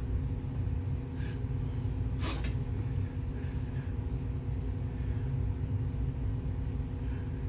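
Steady low rumble and electrical-sounding hum of background room noise, with one brief faint noise about two seconds in.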